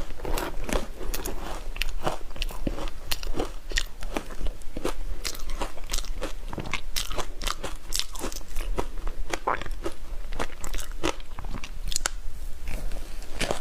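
Ice being bitten and chewed: a continuous run of crisp crunches and cracks, several a second.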